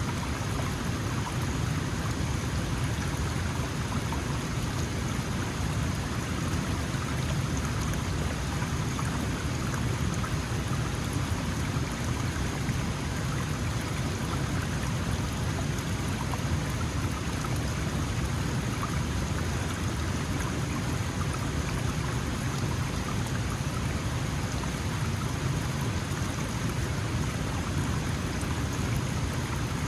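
A small mountain stream flowing and splashing over stones: a steady, even rush of water with no changes.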